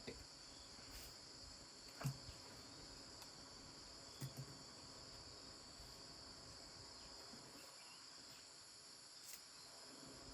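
Faint steady high-pitched insect chorus, with a few soft knocks: one about two seconds in, a quick pair about four seconds in, and one near the end.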